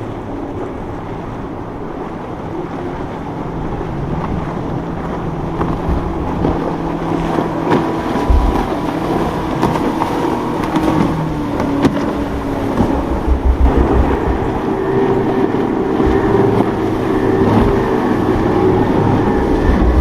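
Motorboat engines running as a boat passes through an inlet, growing louder toward the end, with wind buffeting the microphone.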